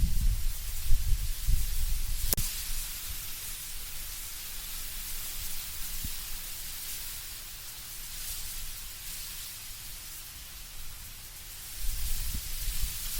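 Wind blowing through autumn trees, the leaves rustling in a steady hiss, with low rumbling gusts at the start and again near the end. One short click about two seconds in.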